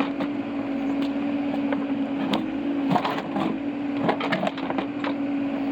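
Excavator running with a steady engine hum while its bucket scrapes and breaks through frozen ground, with scattered sharp cracks and knocks.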